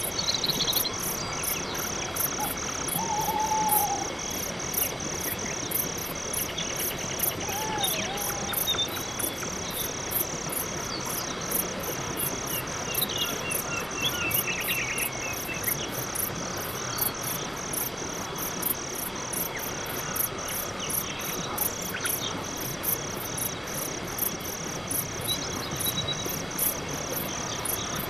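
Night-time crickets chirping steadily in a high, even rhythm of about two chirps a second, over a soft background hiss. A few faint, short calls of other animals are heard now and then, including a brief falling call about three seconds in.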